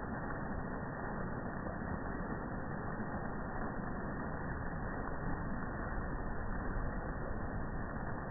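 Rain falling steadily, a constant even hiss.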